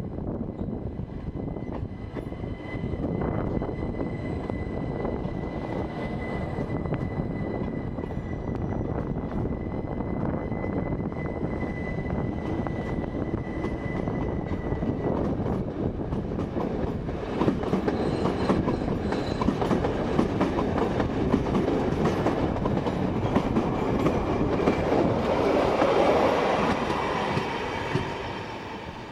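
Rhaetian Railway metre-gauge electric train passing close by, its wheels rumbling and clattering over the rail joints. A steady high whine sounds through the first half, and the clatter grows louder in the second half before fading out at the end.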